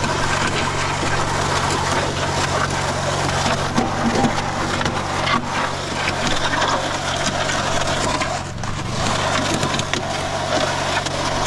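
Concrete mixer drum turning with a heavy batch of wet concrete churning and clattering inside, a dense gravelly crackle over the steady hum of its motor.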